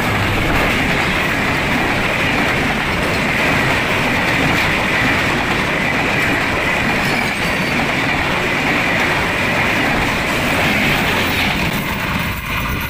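A train running on the rails: a steady rumble and clatter of wheels on track, with a hiss or squeal-like band in the upper middle.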